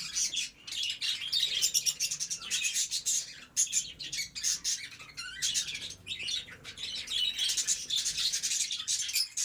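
A flock of caged budgerigars and lovebirds chirping and chattering in a dense, continuous mix of short high calls and squawks.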